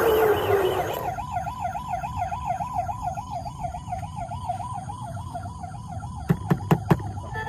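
Electronic toy siren warbling rapidly up and down, about three to four times a second. A few sharp clicks come near the end.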